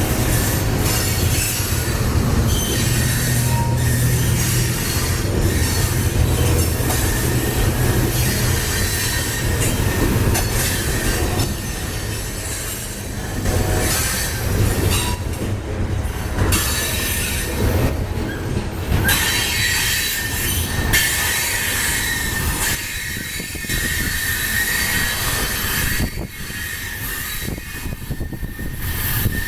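Freight train rolling through a curve, its wheel flanges squealing against the rail in a steady high whine that grows stronger in the second half. A low engine hum sits under the first several seconds.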